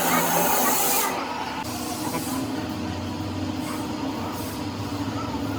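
A loud hiss of spray or air for about the first second, then a quieter, steady low machine hum.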